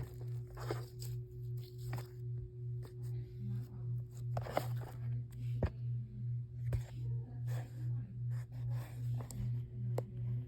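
Slime being handled, with scattered sharp pops and crackles, over a low hum that pulses about two and a half times a second.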